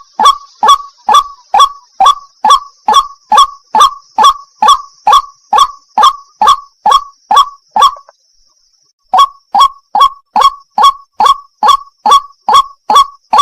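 White-breasted waterhen (burung wak wak) calling: a rapid, even series of loud, harsh 'wak' notes, about two a second, pausing for about a second roughly eight seconds in before starting again.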